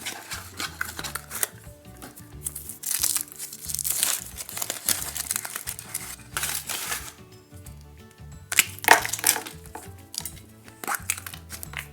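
A surprise egg's wrapper crinkling and tearing as it is unwrapped, in several short bursts, over steady background music.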